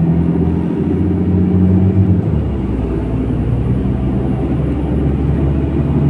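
MAZ-103 city bus engine and drivetrain running, heard from inside the bus. The steady engine note drops to a lower pitch about two seconds in, and the bus runs on with a steady rumble.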